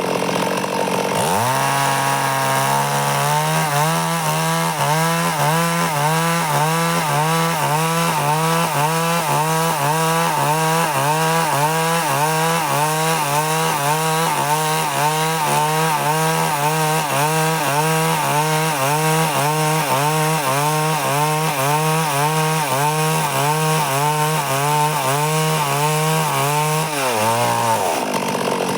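Stihl chainsaw running hard while cutting lengthwise through wood to rip boards. Its engine note sags about a second in, then holds with a steady rhythmic waver of roughly once a second as the bar is worked through the cut, and drops again near the end.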